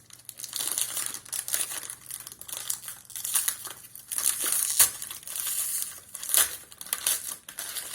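Crinkling and rustling of a small plastic packaging packet being handled and torn open, in irregular bursts with a few sharp crackles.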